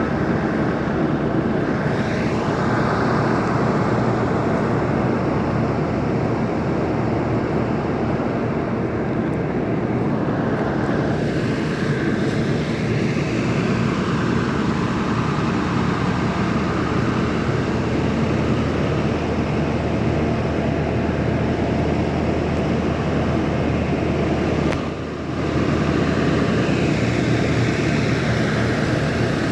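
Steady drone of a school bus's diesel engine running at idle, briefly dipping about 25 seconds in.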